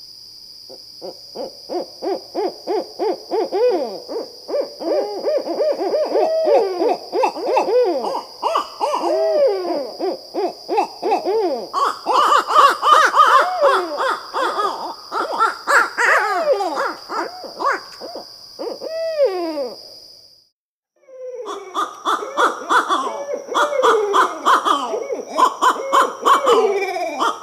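Barred owls calling in a long, rapid, overlapping run of hoots and cackling notes. The calls break off for a moment about 20 seconds in, then start again.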